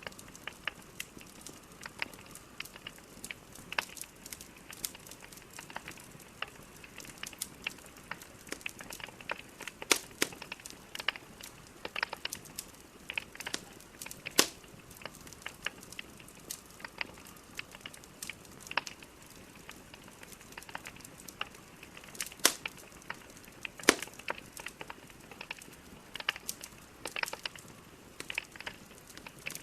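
Wood fire of burning logs crackling, with frequent irregular sharp pops and snaps over a soft steady hiss; a few louder pops stand out.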